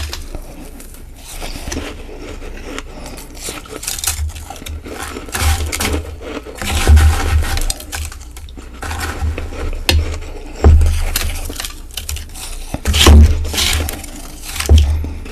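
Close-miked crunching of ice being bitten and chewed: a series of crisp, crackling crunches every second or two, each with a low thud beneath it.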